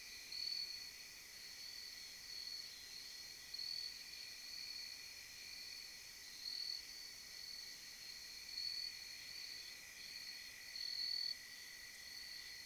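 Crickets chirping: a steady high trill that swells louder every second or two.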